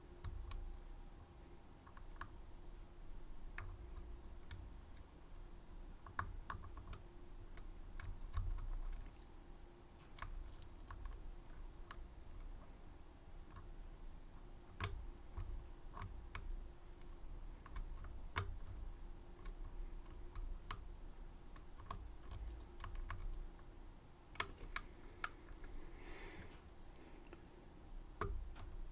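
Small irregular clicks and taps of lock-picking tools working the pins of a 6-pin Medeco M3 high-security lock cylinder, with a short scraping sound near the end.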